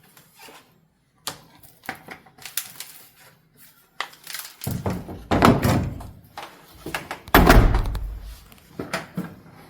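Clicks and knocks of a tumble dryer's lint filter and door being handled, with two heavier thuds, about halfway through and again near three quarters of the way.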